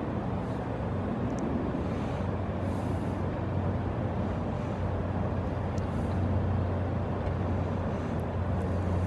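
Steady low mechanical hum over a constant rumble: urban and industrial background noise, with a few faint high ticks.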